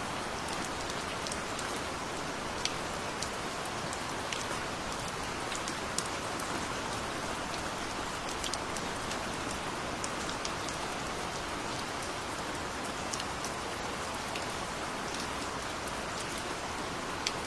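Steady gentle rain falling, an even hiss with scattered sharp drips of single drops landing on a surface.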